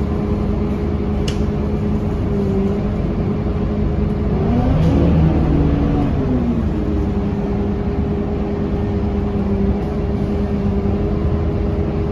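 Scania K230UB city bus's diesel engine running steadily, with a brief rise and fall in engine pitch about halfway through.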